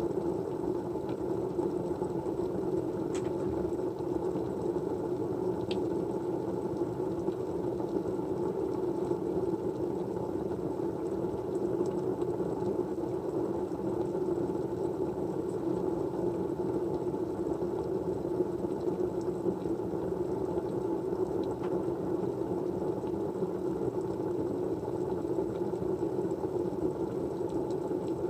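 Steady white-noise background, an even mid-pitched hiss, with a few faint light ticks.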